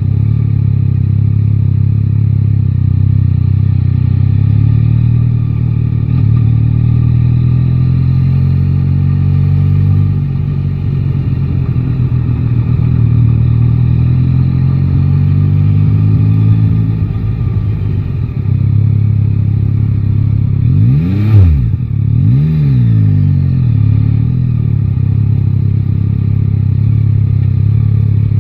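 Yamaha Tracer 9 GT's 890 cc three-cylinder engine running while riding, its pitch drifting gently with the throttle. About three-quarters of the way through come two quick rises and falls in engine pitch, the first the loudest moment.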